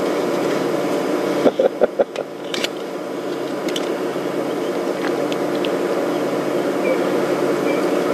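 Safari vehicle's engine idling with a steady hum. A few knocks come about one and a half to two and a half seconds in, and faint short high chirps are heard later on.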